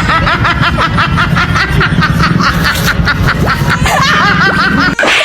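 High-pitched snickering laughter: a fast run of short pitched pulses, several a second, over a steady low hum, breaking off near the end.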